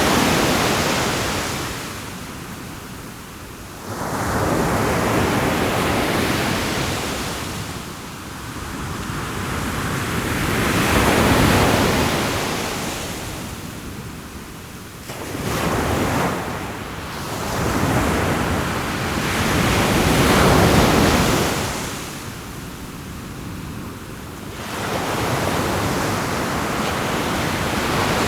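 Ocean surf, waves breaking and washing in, swelling and ebbing every few seconds.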